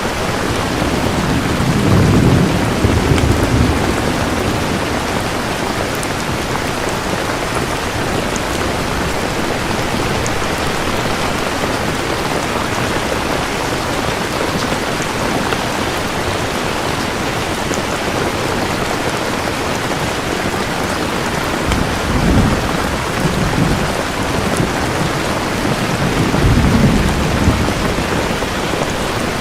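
Steady heavy rain falling, with low rolls of thunder rumbling three times: about two seconds in, and twice near the end.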